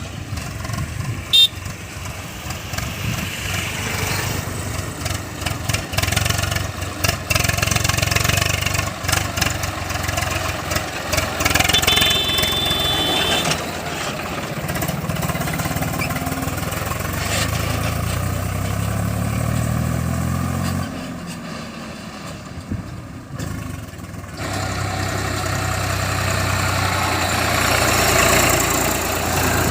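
Diesel engine of a JCB 3DX backhoe loader running and revving as it works, with a sharp knock about a second and a half in. Past the middle the engine note rises for a few seconds, then drops away before picking up again.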